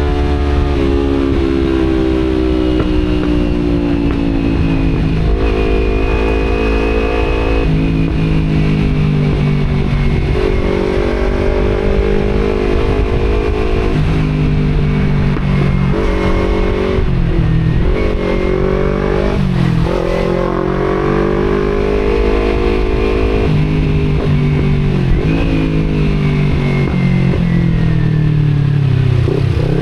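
Kawasaki Z250 parallel-twin through an Akrapovic exhaust, the motorcycle being ridden with its engine note climbing under throttle and dropping at each gear change, several times over.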